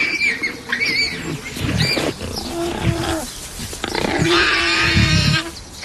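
Lions snarling and growling in several harsh outbursts, the longest about four seconds in.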